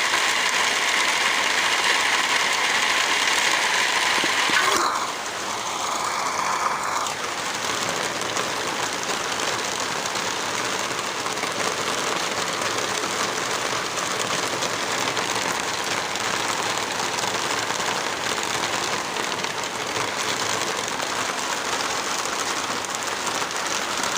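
Steady rain falling, an even hiss. For the first five seconds a steady hum sits on top of it and cuts off suddenly.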